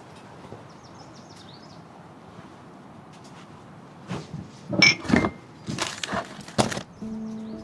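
Several sharp wooden knocks and cracks in quick succession, starting about halfway through over a faint steady hiss. Music begins near the end.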